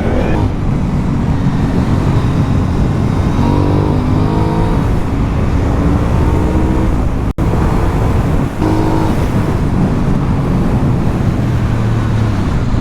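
Aprilia Dorsoduro 900's V-twin engine, heard on board with wind rush, under load. Its note rises as it revs up about three and a half seconds in and again near nine seconds.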